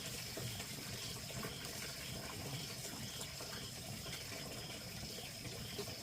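Steady sound of running water, with a faint high steady tone and soft repeated chirps about twice a second.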